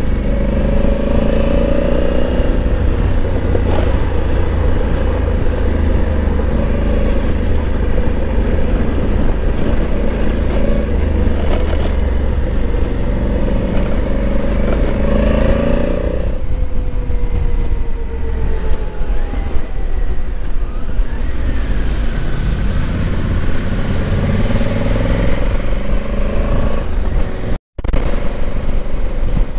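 Honda Africa Twin parallel-twin motorcycle engine running under way, with wind rushing over the microphone. The engine note drops about halfway through and climbs again near the end, and the sound cuts out for a split second just before the end.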